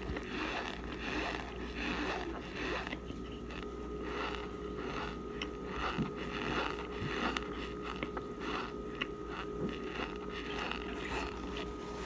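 Close-up chewing of dry, chalky Argo starch chunks: a steady run of crunchy bites and chews, about two or three a second.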